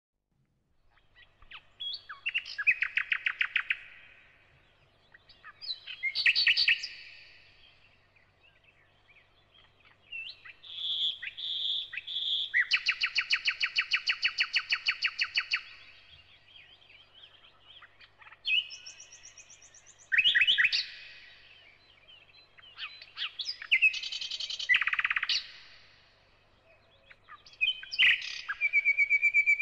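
Songbird singing in repeated phrases of rapid chirping trills, each lasting a second or a few seconds, with pauses between; a held whistled note begins near the end.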